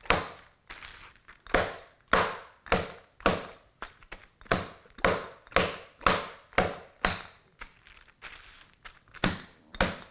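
A bottle of olive oil pounding a chicken breast flat inside a plastic zip-top bag, used in place of a meat pounder. It makes repeated heavy thuds about twice a second, with a brief pause about eight seconds in.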